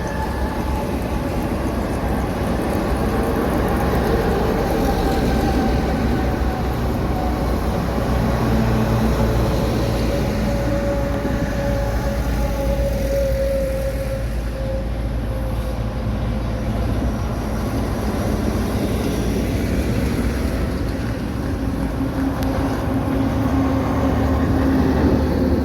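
Heavy trucks driving past with a steady rumble of engines and tyres, and an engine tone falling slowly in pitch through the middle as a vehicle passes. The sound cuts off abruptly at the end.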